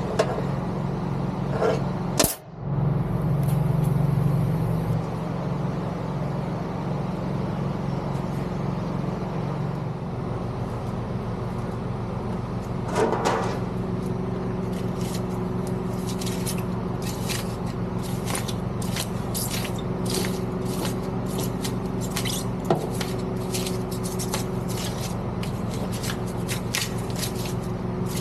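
A steady, engine-like mechanical hum, with a brief break about two seconds in. From about halfway on comes a run of irregular sharp clicks and taps.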